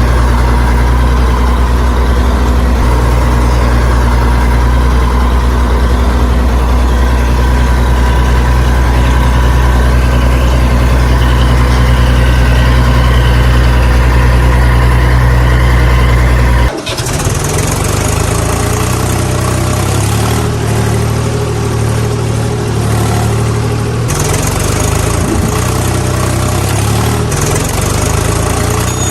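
Tractor engine running steadily. About 17 seconds in it cuts abruptly to a different, slightly quieter engine recording that runs on just as steadily, typical of engine sound effects laid over the video.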